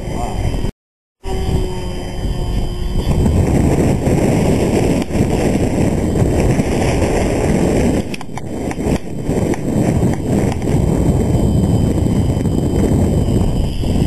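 Strong gusty wind buffeting the microphone: a loud, rough rumble that swells and sags, broken by a brief total dropout about a second in.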